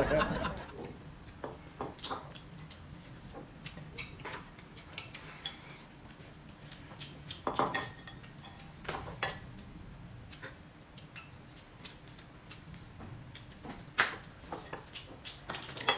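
Tableware clinking during a meal: scattered light clicks and taps of utensils on dishes, with louder clinks about 7.5 and 14 seconds in.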